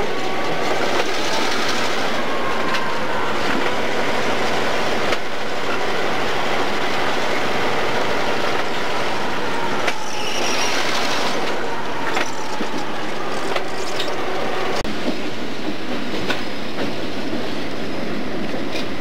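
Chicago Central & Pacific diesel-hauled train passing close, a loud steady rumble of wheels on rail with irregular clanks over rail joints and a thin wheel squeal.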